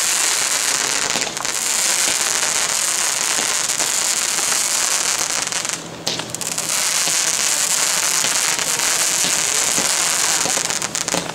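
Two Brothers Silver Screen fireworks spraying sparks, a steady loud hiss that breaks off briefly about six seconds in, then starts again and stops near the end.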